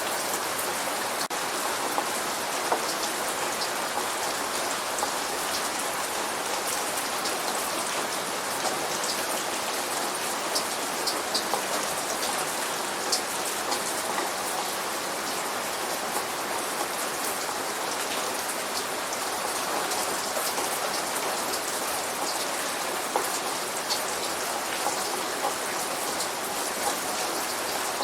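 Steady light rain: an even hiss with scattered close drop ticks, no thunder.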